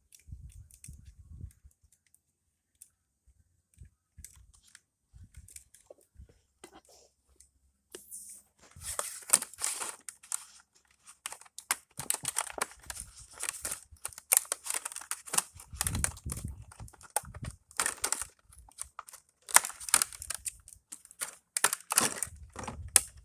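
Product packaging being torn open and crinkled by hand: a few faint handling sounds at first, then from about eight seconds in a busy, irregular run of rips and rustles.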